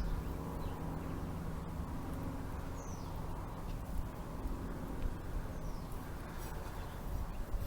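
A bird gives a short, falling chirp every three to four seconds over a steady low hum.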